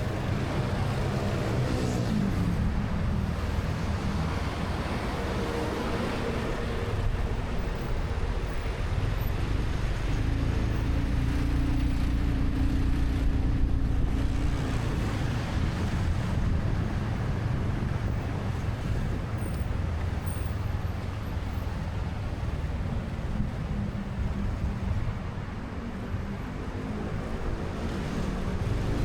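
Motorcycle engine running under way in city traffic, with traffic noise around it. The engine's pitch drops about two seconds in and climbs again near the end as it speeds up.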